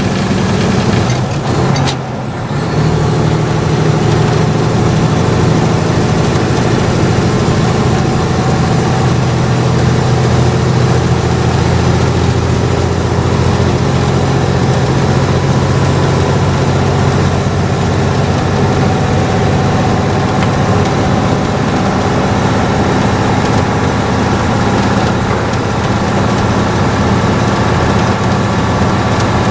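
Mack truck's diesel engine running steadily under load while hauling a backhoe, heard from inside the cab. The level drops briefly about two seconds in, then the drone holds.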